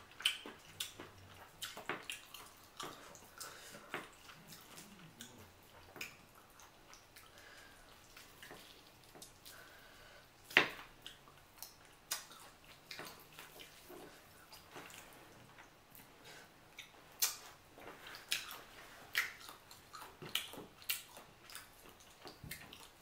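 Close-up wet eating sounds of boiled chicken being chewed: irregular lip smacks and mouth clicks, the sharpest one about ten and a half seconds in.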